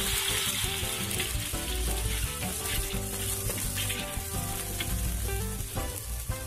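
Fried spice paste sizzling in hot oil in a wok as a little water is poured in, the hiss strongest in the first second or so and then settling into a steady sizzle.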